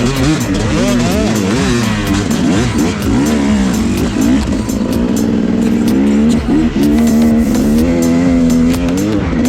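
Dirt bike engine revving up and down in quick swings as the rider works the throttle, then holding a steadier pitch in the last few seconds.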